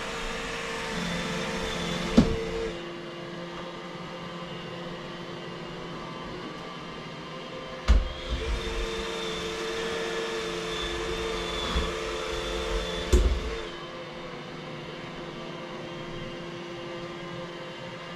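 Vacuum cleaner running with a steady hum, its hiss growing brighter and louder for a few seconds in the middle. Sharp knocks come three times, about two, eight and thirteen seconds in.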